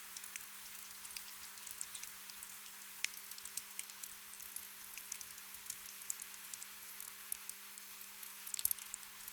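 Gentle rain: a soft steady hiss with scattered drops pattering close by, and a quick flurry of drops near the end.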